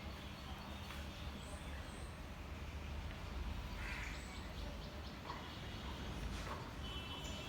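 A few short bird calls over a steady low background rumble, with a steady high tone starting near the end.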